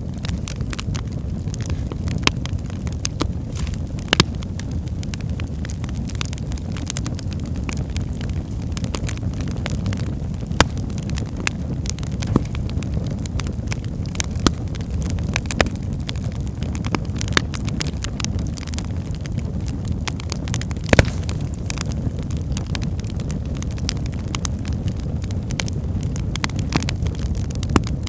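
Wood logs burning in a fireplace: a steady low rumble of flame with frequent sharp crackles and pops, and a few louder snaps scattered through.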